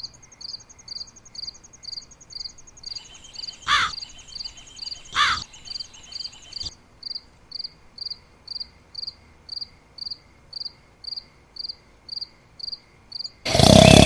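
Insects chirping: a regular high chirp about twice a second, with a continuous high trill over the first half. Two short, louder calls with a wavering pitch come about four and five seconds in, and a loud, noisy burst comes near the end.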